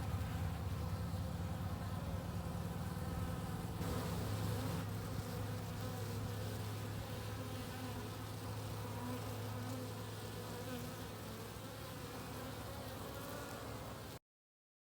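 A mass of Carniolan honey bees buzzing in a steady hum after being shaken from their four-pound package into a hive. The sound cuts off suddenly near the end.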